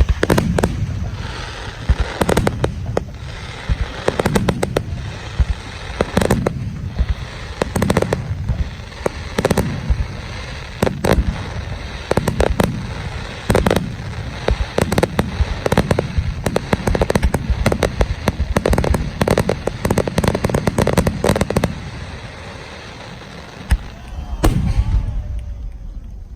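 Aerial fireworks shells bursting in rapid succession: deep booms mixed with sharp cracks and crackle. The barrage eases off about 22 seconds in, then a single burst goes off near the end.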